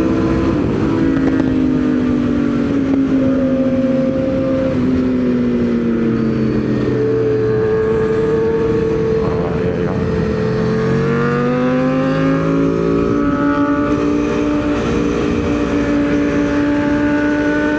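Aprilia Tuono V4's V4 engine running hard on track, heard from the bike. Its note sinks slowly over the first several seconds, holds, then climbs again past the middle, over a steady rush of noise.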